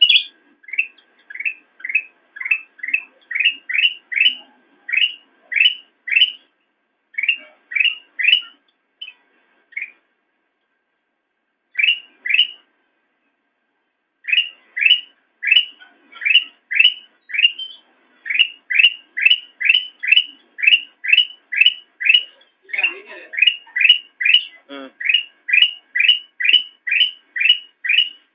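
Kutilang emas songbird calling: a long run of short, sharp, evenly spaced notes, about three a second, that breaks off for a few seconds midway and then resumes. A couple of lower, harsher wavering sounds come in near the end.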